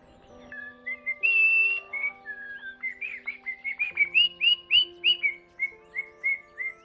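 A bird singing clear whistled notes, slower at first, then a quicker run of short repeated arching notes, over soft sustained background music.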